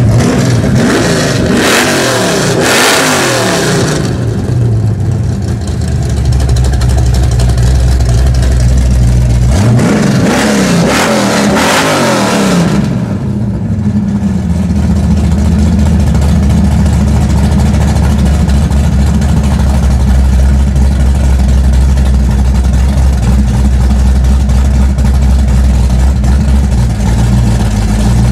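1987 Pontiac Trans Am's cammed, built small-block Chevy V8 running with the exhaust cutouts open: two bursts of revving, one at the start and another about ten seconds in, and otherwise a lopey idle.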